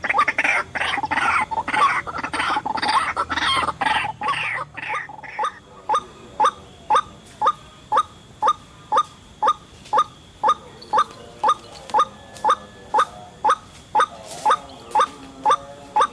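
White-breasted waterhen calling: a dense run of loud, harsh calls for about five seconds, then a steady series of single short notes, about two a second.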